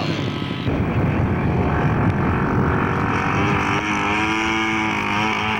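Radio-controlled scale model aircraft engine running with a steady buzzing note. Less than a second in, it turns louder and rougher, and the steady pitched drone comes back in the second half.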